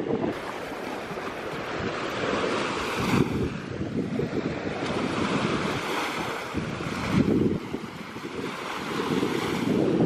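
Sea waves breaking and washing on a beach, swelling and easing every few seconds, with wind buffeting the microphone.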